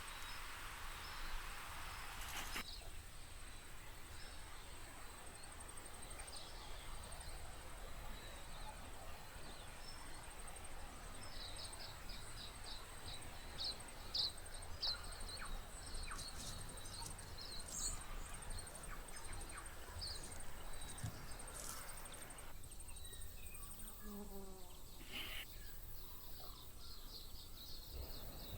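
Outdoor birdsong at a moderate level. A European goldfinch twitters in a run of quick high chirps around the middle, and an Australian magpie sings a short low warbling carol of gliding notes near the end, over a faint steady high insect-like buzz.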